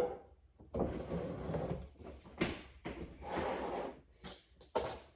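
Kitchen handling noises: a series of knocks and scrapes like drawers and cupboards being opened and shut, with two sharp clacks near the end.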